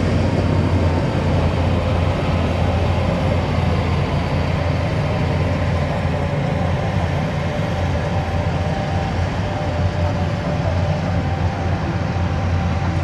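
Diesel engine of heavy earthmoving machinery running steadily, a continuous low drone.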